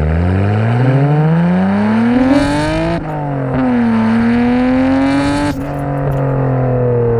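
Nissan Skyline R32 GT-R's RB26DETT twin-turbo straight-six, through a Tomei titanium header-back exhaust, accelerating hard. The revs climb for about three seconds and drop at a gear change, climb again and drop at a second shift about five and a half seconds in, then hold steady. A rushing hiss rises just before each shift.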